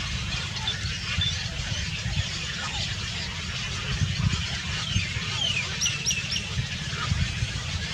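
Small birds chirping with many short, high notes, and a quick run of three sharper calls about six seconds in, over a steady low rumble.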